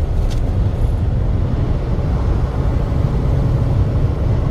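Truck driving along, a steady low engine and road rumble.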